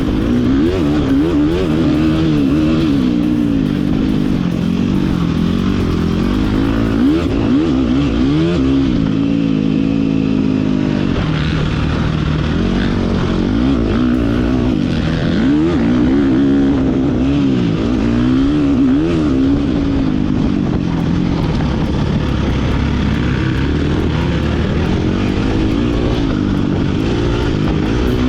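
Motocross dirt bike engine revving up and falling back again and again as the rider opens and closes the throttle through a lap.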